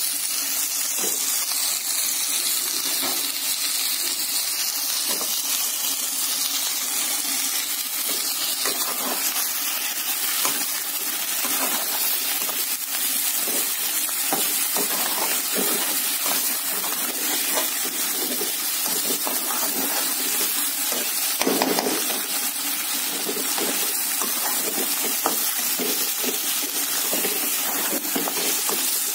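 Chicken pieces sizzling in hot oil with browned onions in a metal pan, a steady frying hiss. The spoon stirring them adds frequent light clicks and scrapes against the pan.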